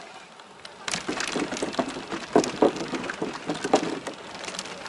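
Bicycle rattling and crackling over a rough trail surface. A dense run of small clicks and knocks starts suddenly about a second in and eases off near the end.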